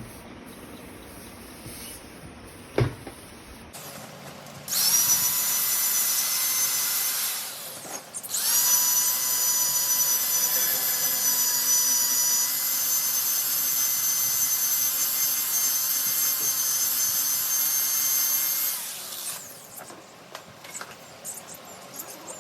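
A high-speed power tool running with a high whine, first for about three seconds, then, after a brief stop, for about ten seconds before it cuts off. A single sharp click comes a couple of seconds before the tool starts.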